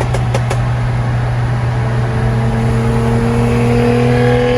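BMW N55 turbocharged straight-six running under a steady drive, its exhaust drone rising slowly in pitch over the last couple of seconds as the revs climb. A few short clicks come right at the start.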